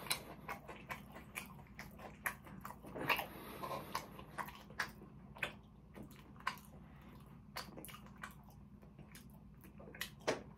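Someone chewing a mouthful of meatball marinara sub close to the microphone: a string of irregular short mouth clicks and smacks.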